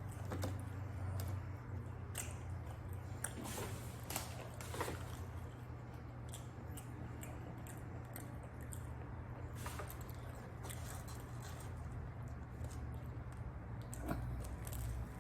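A person chewing a sandwich close to the microphone, with soft wet mouth smacks and irregular small clicks, over a low steady hum.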